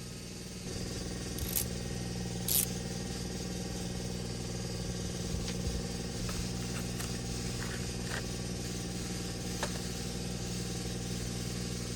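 A steady machine hum sets in about half a second in and holds an even pitch, with a few sharp clicks or clinks over it, the loudest two near the start.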